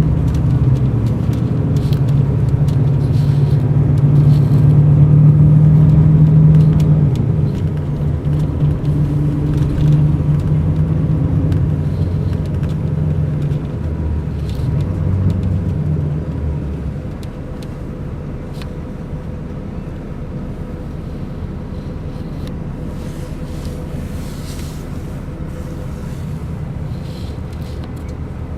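Mercedes-Benz O500 RSD BlueTec5 coach engine running under load, heard from inside the bus. It is loudest a few seconds in, then eases off in steps and settles to a quieter, steady running hum for the second half.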